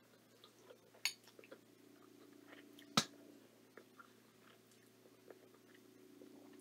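Quiet chewing of a mouthful of soft macaroni and cheese, with small wet mouth clicks over a faint steady hum. A sharp click about a second in and a louder one about three seconds in.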